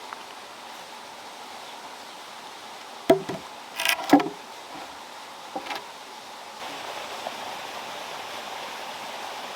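Steady flowing water, with a few sharp knocks and clatters about three to six seconds in, loudest around four seconds. The water grows louder about two-thirds of the way through.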